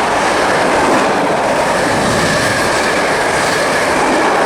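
Class 90 locomotive-hauled passenger train passing through the station at speed: a loud, steady rush of wheels on the rails.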